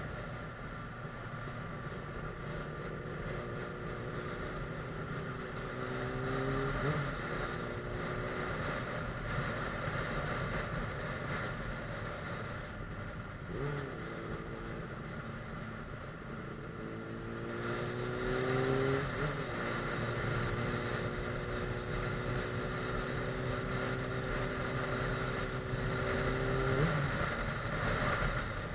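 Suzuki GSF 600 Bandit S inline-four engine on the move: it twice winds up in pitch and changes gear, holds a steady note, then eases off near the end.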